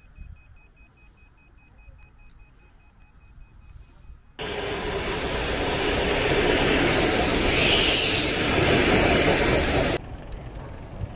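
A train running: after a quiet few seconds, a loud, steady rushing rumble starts abruptly about four seconds in, with a thin high tone joining near the end, and cuts off sharply about ten seconds in.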